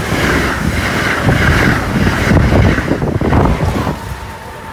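Amtrak Acela Express trainset passing at speed right alongside: a loud rush of wheel and air noise, with wind buffeting the microphone. The trailing power car goes by near the end and the sound falls away.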